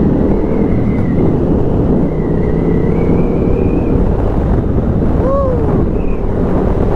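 Motorcycle engine running under way, with heavy wind noise on the microphone. A brief rising-and-falling tone sounds about five seconds in.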